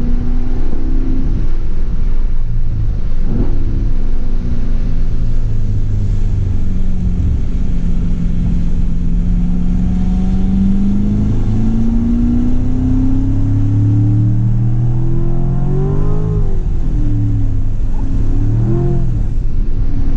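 C7 Corvette Grand Sport's 6.2-litre V8 heard from inside the cabin, pulling on part throttle on a wet track. Its pitch climbs slowly through the middle and bends up and down a few times as the revs change, over a steady low rumble.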